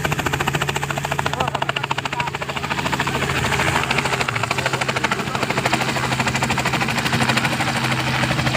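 Helicopter running, a rapid, even chop of the rotor blades over a steady low engine hum.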